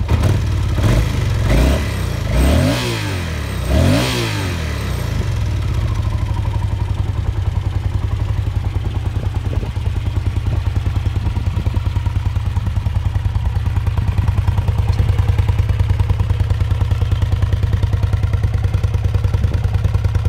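Yamaha TDM 850 parallel-twin engine revved sharply about four times in the first few seconds, then settling to a steady, evenly pulsing idle. The owner says the bike needs servicing and misfires when the throttle is opened hard.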